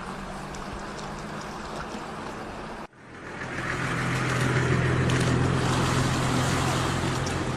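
A motor running steadily with a low hum and a rush of wind or water noise. It cuts off abruptly about three seconds in, then comes back louder.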